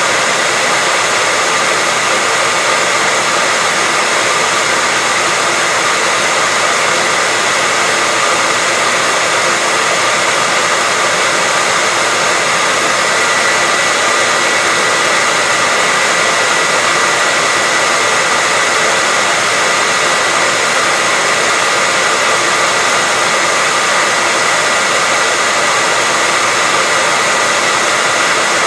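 Hairdryer running steadily: a constant airy rush of fan and airflow with a faint high whine from the motor, unchanging throughout.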